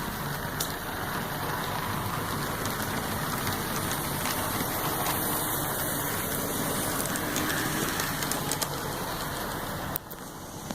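HO-scale model steam locomotive and passenger cars running along the track: a steady rolling whir of the motor and wheels on the rails, with a few faint clicks, dipping briefly in level near the end.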